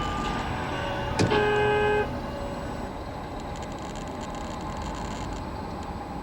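Steady vehicle road and engine noise picked up by a dashcam, with a sharp knock about a second in, followed at once by a short car-horn blast of under a second.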